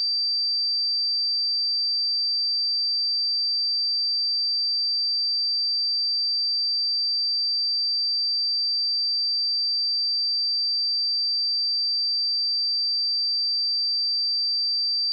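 A steady pure sine-wave test tone at 4675 Hz, a single high-pitched unwavering note at constant loudness, used to test speakers and headphones.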